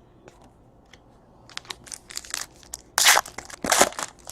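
Trading cards and their packaging being handled: a run of short scrapes and crinkles, with two louder rustling swishes about three and four seconds in.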